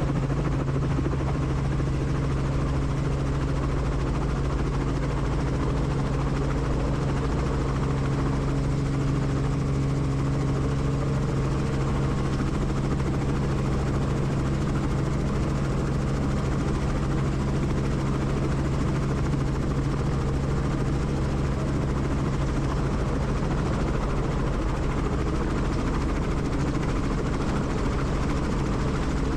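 Helicopter running steadily, heard from inside the cabin: a constant low hum and rumble from the rotor and engine.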